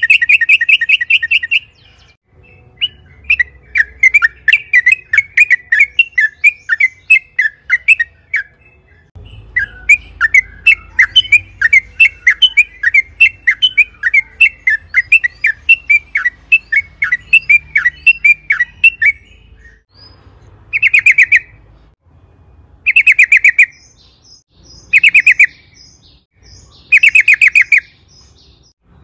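Yellow-vented bulbul (trucukan) singing. A short fast trill opens, followed by two long runs of rapid chattering notes. Near the end come four short trills about two seconds apart.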